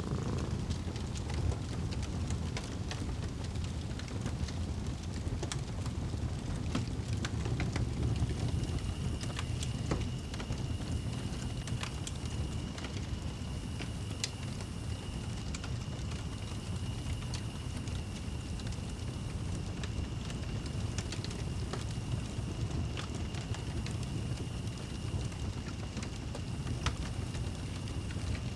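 Fireplace fire crackling, with scattered sharp pops over a steady low rumble. A faint steady high tone joins about eight seconds in.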